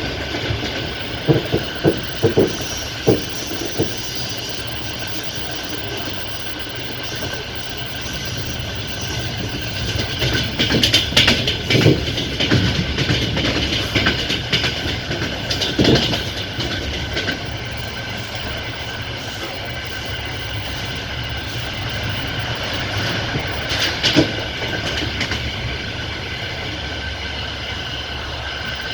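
Passenger train carriage wheels rolling on the rails, heard from inside by the window: a steady rumble with faint high-pitched tones, broken by groups of sharp clacks as the wheels cross rail joints, several in the first few seconds, a denser cluster about halfway through and another near the end.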